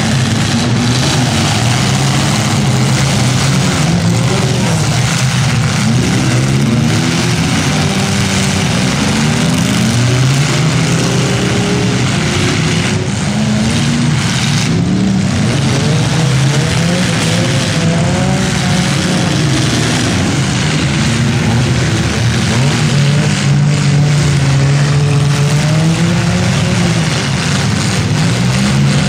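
Several demolition derby cars' engines running and revving together, their pitches rising and falling over one another above a steady loud rumble.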